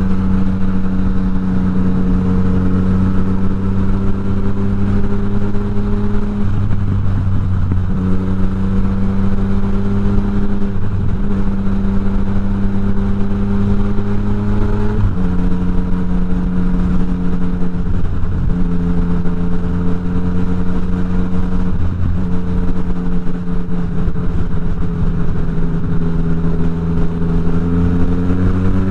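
Yamaha MT-09's inline three-cylinder engine and exhaust running at a mostly steady engine speed, with brief breaks every few seconds, then climbing in pitch near the end as it revs up.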